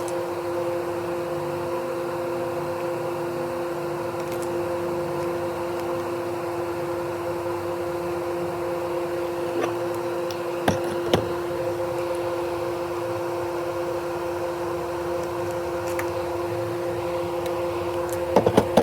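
A steady machine hum with two constant tones, broken by a few light clicks about ten and eleven seconds in and again near the end.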